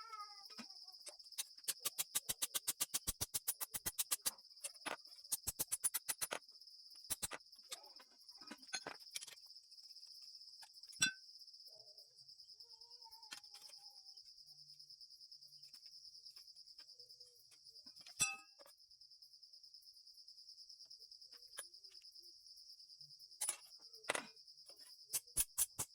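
Insects, likely crickets, chirping steadily in a high, even drone. Over it come runs of rapid, regular clicking or tapping strokes in the first six seconds and again near the end, and a couple of single sharp knocks in between.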